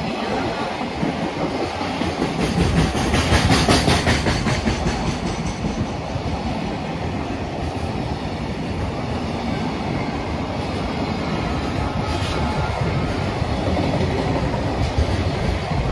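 Freight train of container flatcars running through a station at speed: a steady rumble of steel wheels on rail, with runs of rapid rhythmic clacks as wheels cross rail joints, loudest about three seconds in.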